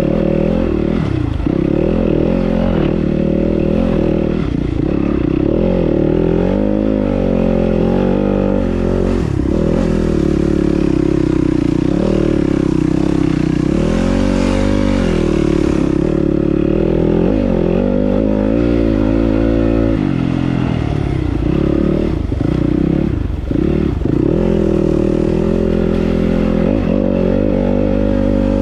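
Dirt bike engine running hard under way, its pitch repeatedly rising and falling as the throttle is opened and closed and the gears change.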